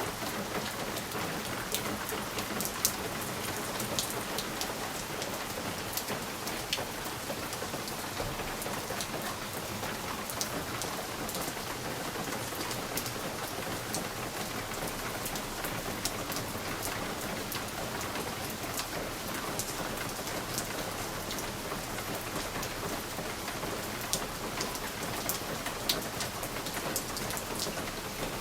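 Steady rain falling against a window pane: a constant hiss with scattered sharper ticks of single drops hitting the glass.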